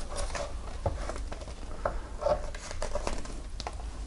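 Soft rustles and light taps of a hardcover picture book being handled and its pages turned, over a faint steady low hum.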